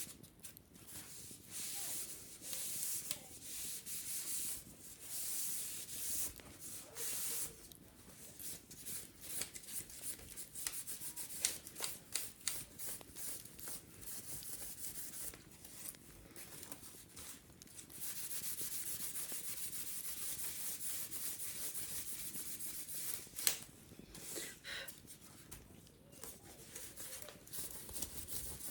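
Wicker basket being scrubbed and scratched. First come hissy rubbing strokes about a second each, then a run of small crackly clicks. About two-thirds of the way through there is a steadier stretch of scrubbing, and a sharp tap near the end.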